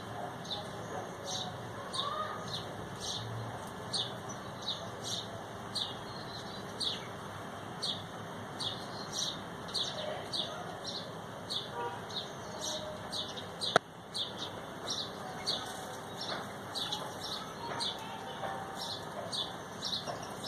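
Bird chirping: a short, high chirp repeated at an even pace of about two a second, with one sharp click about two-thirds of the way through.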